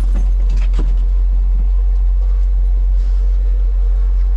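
Engine running steadily with a deep, even rumble while a load is raised.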